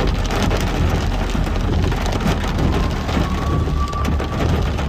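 Heavy rain pelting a moving car, a dense steady hiss of drops over a low rumble of engine and tyres.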